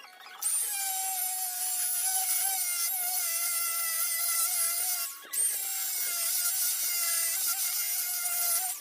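Power tool grinding or sanding, a steady motor whine under a heavy abrasive hiss. It runs in two passes, stopping briefly for a moment about five seconds in.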